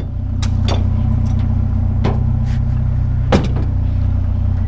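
A vehicle engine idling steadily, with four sharp clanks of metal hand tools being handled in a box, the loudest a little over three seconds in.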